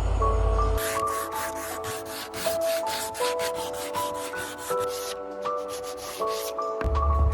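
A quick, even run of rubbing or scraping strokes, several a second, starting about a second in and stopping near the end, over soft mallet-percussion background music.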